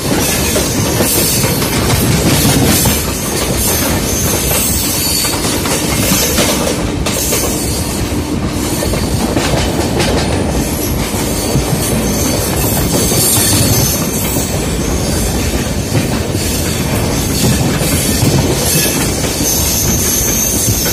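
Indian Railways LHB express coaches running at speed, heard from an open coach doorway: a steady rumble and clatter of wheels on rail, with a second train running alongside on the adjacent track.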